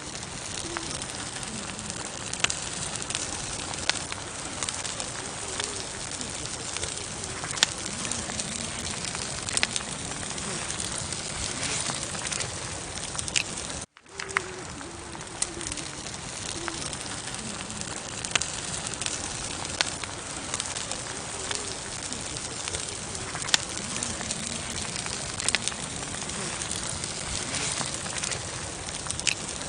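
Campfire burning with a steady hiss and frequent sharp crackles and pops of the wood. Low wavering calls, like a dove cooing, come and go underneath. The sound cuts out for an instant about halfway through and starts again.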